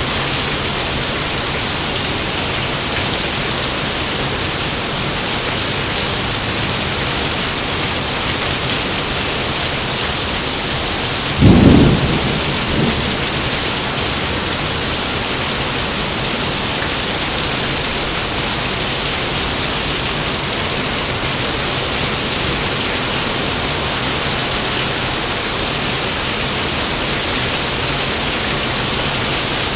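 Heavy rain falling steadily, with one short, loud clap of thunder a little before halfway and a smaller echo of it about a second later.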